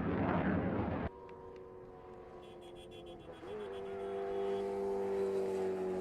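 A loud, even roar, like a jet engine, that cuts off suddenly about a second in. It gives way to a quieter, steady engine note that grows louder, with a brief lift in pitch about three and a half seconds in, and a fast run of light clicks over it.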